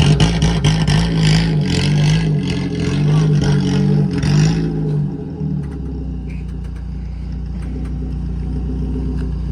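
Vehicle engine and road noise heard from inside a moving vehicle. For about the first five seconds a pitched engine note rises and falls several times; after that it settles into a steady low drone.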